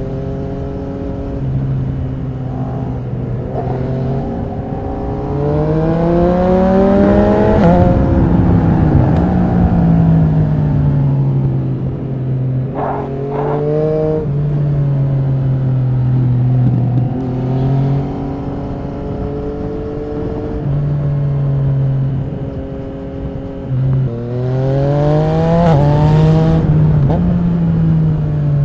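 Yamaha MT-09 SP's three-cylinder engine through an Akrapovic Racing exhaust, revving hard and rising in pitch under acceleration, with a gear change near the top of the first pull. It settles into steady throttle and falls away, with a couple of sharp exhaust cracks partway through, then pulls hard again near the end. Wind noise runs underneath.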